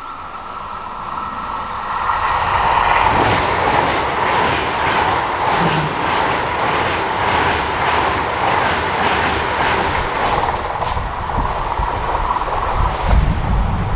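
A train passing at speed on a mainline: the rush of wheels on rail builds over the first few seconds, then holds with a regular clatter about twice a second before easing off near the end. Wind buffets the microphone at the very end.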